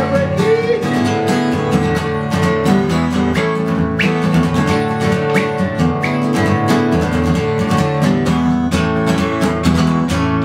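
Acoustic guitar strummed in a steady, even rhythm: the instrumental break between verses of a folk song.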